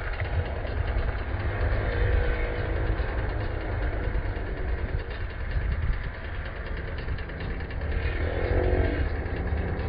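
Motocross dirt bike engines running on the track under a heavy low rumble, with a bike revving up and back down near the end.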